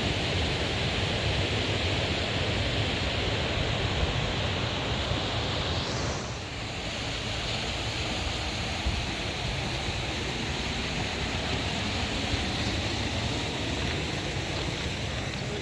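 Waterfall rushing in a steady noisy roar, briefly dipping in level about six seconds in.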